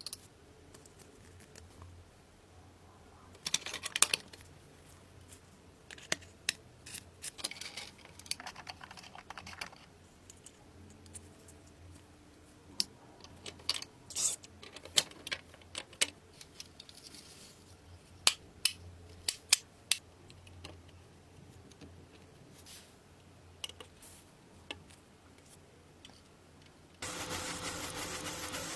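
Scattered light metallic clicks, taps and clinks of hand work on small parts and tools. Near the end a steady hiss starts suddenly.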